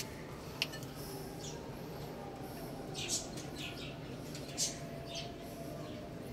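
Small birds chirping: short, high chirps scattered irregularly, half a dozen in all, over a steady low background hum.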